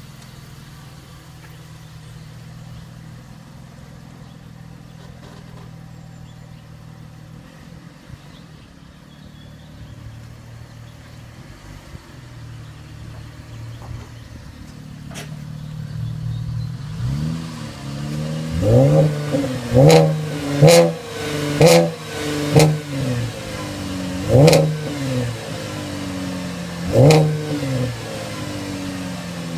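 2015 Chevrolet Camaro's engine and exhaust idling steadily, then, from about 17 seconds in, a series of short, sharp throttle blips, each rev rising quickly and dropping back to idle.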